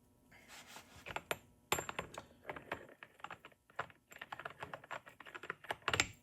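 Motorcycle primary chain and sprockets being handled and fitted together: a quick, irregular run of light metallic clicks and rattles, louder about a second and a half in and again near the end.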